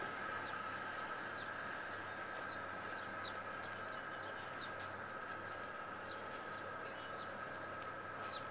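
Small birds chirping: many short, falling chirps, several a second, over a steady hum.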